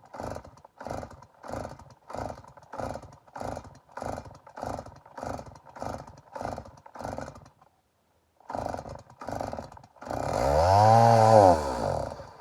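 Stihl MS 290 two-stroke chainsaw being pull-started: a quick even run of recoil-cord pulls, a short pause and two more pulls, then near the end the engine fires, revs up and dies again after about two seconds. The saw is hard to start, and the owner does not know why.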